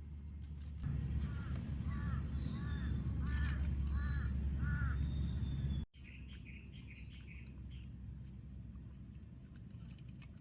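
A bird calls five times in a steady series of arched notes, over a steady high insect drone and a low rumble. After an abrupt cut, a quicker run of about six short, higher bird notes follows.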